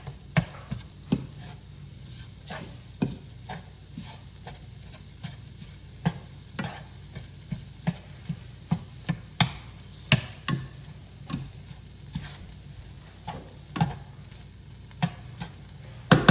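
Ground turkey and onions sizzling in a pan while being stirred, with irregular sharp knocks and scrapes of the utensil against the pan.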